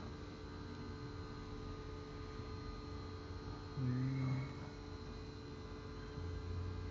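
Steady electrical hum made of several fixed tones, with one short low pitched sound about four seconds in.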